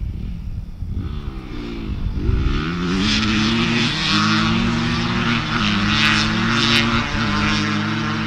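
A small off-road vehicle engine picks up speed over the first couple of seconds, its pitch rising, then runs at a steady speed under way.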